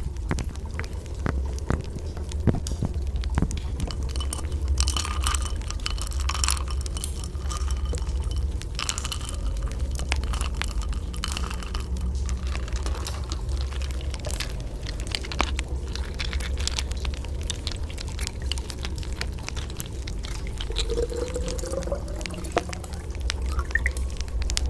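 Rain falling, with many separate drips and splashes over a steady low rumble.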